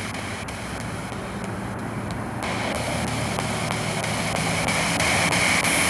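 Spirit box sweeping through radio stations: a steady hiss of radio static broken by faint, evenly spaced clicks as it steps from station to station.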